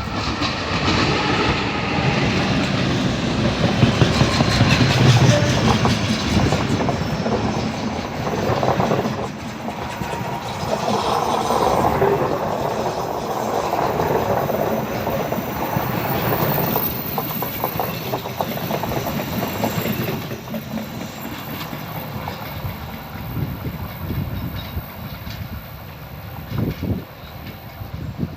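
A train running past on its track, its wheels clattering over the rail joints, loudest a few seconds in and then slowly fading as it moves away.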